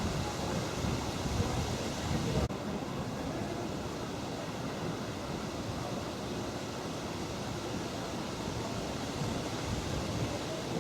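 Outdoor wind buffeting the microphone over a steady rushing hiss; about two seconds in the sound cuts abruptly to a steadier, even hiss with less rumble.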